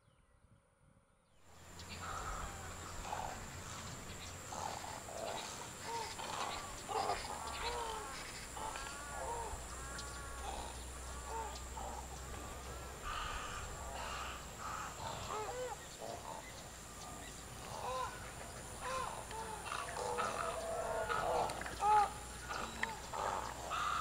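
A flock of birds calling over one another, with many short, arched call notes overlapping. The calls start abruptly about a second and a half in, after near silence.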